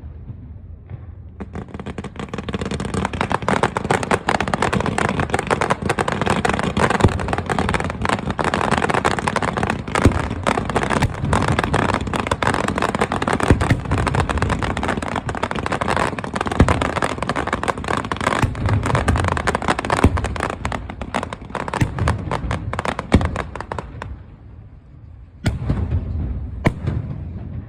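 Aerial fireworks bursting: a dense run of rapid crackling and popping with deep booms among it, building about two seconds in and dying down after about twenty seconds, followed by a few more scattered bangs near the end.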